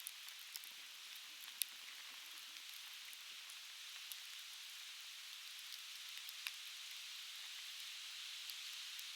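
Softwood logs crackling in a fire pit: scattered sharp pops and ticks over a steady background hiss, with the loudest pops about a second and a half in and again about six and a half seconds in.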